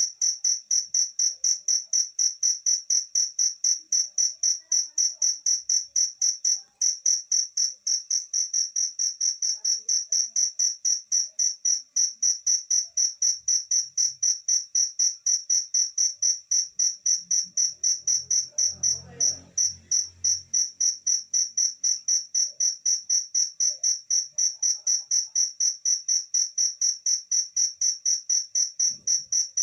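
Pet cricket chirping steadily in a rapid, even train of high-pitched chirps, about four a second. A faint, brief low rumble comes through about two-thirds of the way in.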